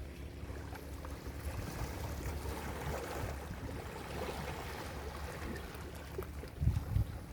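Ocean surf washing onto a beach, a steady rushing wash that swells slightly partway through. Near the end come brief loud low rumbles, like wind buffeting the microphone.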